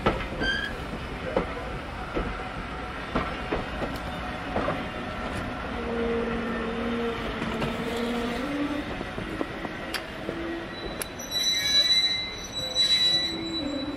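Passenger coaches rolling slowly past, wheels knocking over rail joints, with a high ringing wheel squeal loudest near the end.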